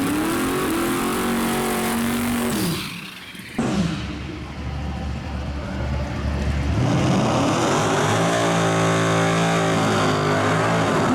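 Drag race car engine revving up, holding high revs, then dropping off after about two and a half seconds. After an abrupt break, another engine builds from a low rumble into a steady, high-revving wide-open pull.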